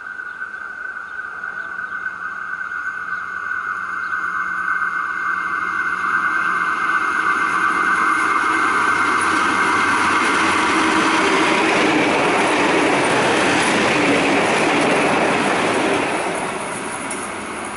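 Diesel railcar approaching and passing through the station. A steady high ringing grows as it nears, then the wheels and engine rumble and rattle, loudest as it goes by, and the sound falls away shortly before the end.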